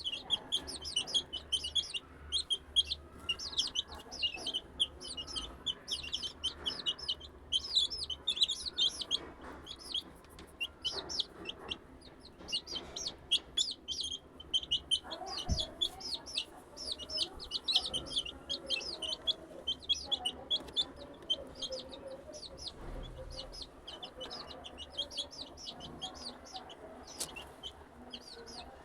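A flock of chicks about three weeks old peeping without a break: many short, high, falling chirps overlapping one another.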